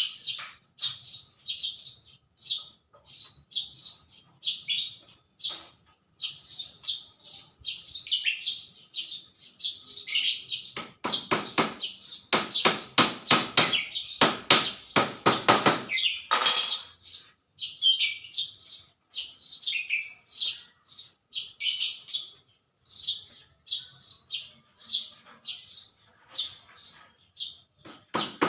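Small birds chirping in many short, high calls, with a dense run of sharp knocks lasting about five seconds from about eleven seconds in.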